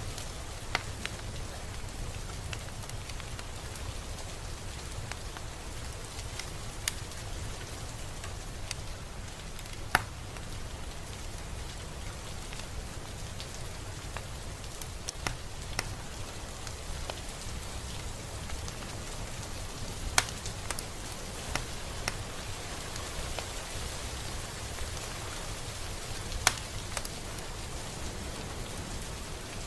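Steady gentle rain, an even hiss of drops with sharp individual drips ticking on a surface here and there, the loudest about a third of the way in, two-thirds of the way in and near the end.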